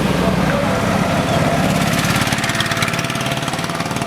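Small motorcycle engine running steadily with a fast, even putter.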